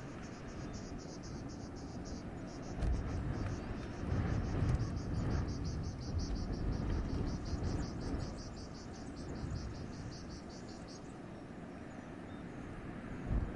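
Wind gusting through a forest, a low rushing that swells about three to six seconds in. Over it runs a rapid, even, high-pitched pulsing call, about five pulses a second, that stops about eleven seconds in.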